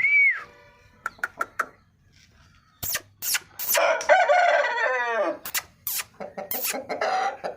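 Rooster crowing once, a long call that slides down in pitch at its end, with short clucking calls before and after it.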